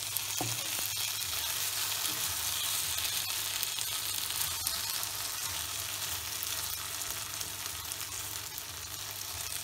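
Pepper chicken sizzling steadily as it fries dry in a nonstick pan, the liquid cooked off, while a wooden spatula stirs and scrapes through it with faint scattered ticks.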